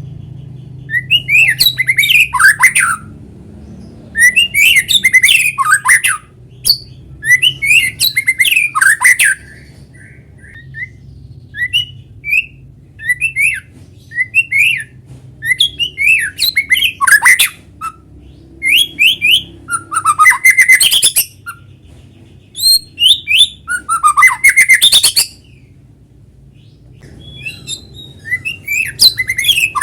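White-rumped shama (murai batu) singing: loud phrases of rapid whistled and chattering notes, each one to three seconds long, repeated about eight times with short pauses between. A faint steady low hum lies underneath.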